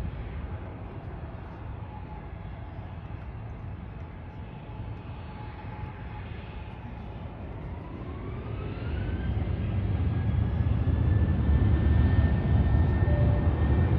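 ANA jet airliner's engines spooling up to takeoff thrust: a steady low rumble, then from a little past halfway a rising whine as the engine noise grows much louder and holds.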